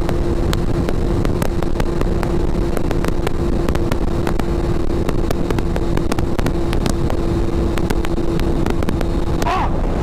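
Motorcycle engine running at a steady pitch while riding, with wind rushing over the microphone. A short wavering sound rises and falls near the end.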